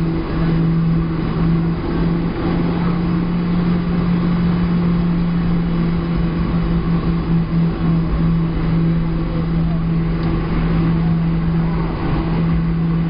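Steady cabin noise inside a Boeing 737-700 airliner: the jet engines' drone with a strong, even low hum under a broad rushing noise.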